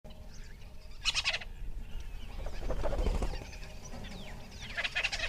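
Bird calls: a rapid rattling call about a second in, then short chirps falling in pitch near the end.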